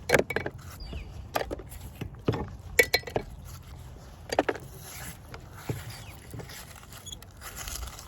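Scrap metal clinking and knocking as pieces are pulled off a magnet fishing magnet: about eight sharp, irregular clinks spread over several seconds.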